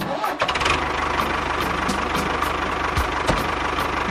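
A small engine starts up and runs steadily with a fast, even knocking beat.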